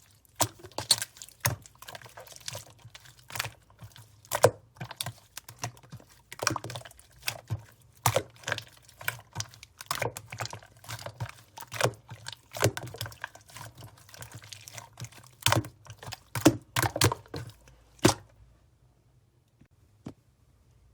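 Sky-blue slime squished and poked by hand, making quick wet clicks, pops and squelches in an irregular stream. It stops about eighteen seconds in.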